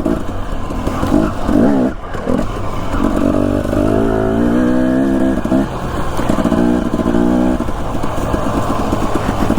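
Husqvarna TE250 enduro dirt bike engine running under a rider, the revs rising and falling as the throttle is worked along the trail.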